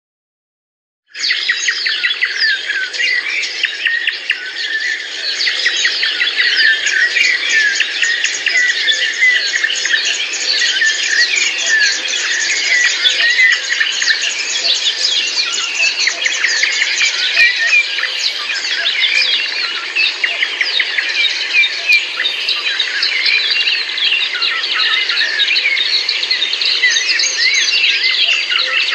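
A dense chorus of many birds chirping and calling over one another, starting suddenly after about a second of silence.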